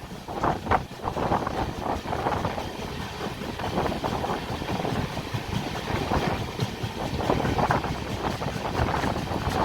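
Passenger train running along the track, a steady noise of wheels on rails heard from on board the coach.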